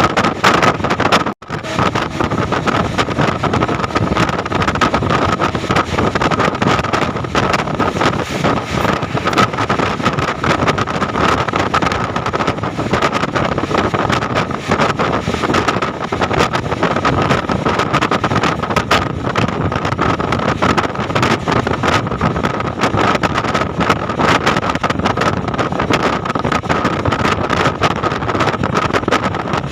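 Passenger train running, heard from aboard a coach: a continuous loud noise of wheels on the track and rushing air, with a steady high hum running through it. The sound cuts out for an instant about a second and a half in.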